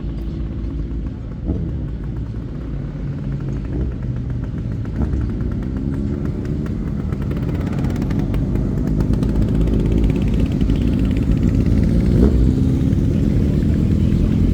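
Motorcycle engines running at low revs, getting steadily louder as bikes ride up close, with a few brief rising throttle blips.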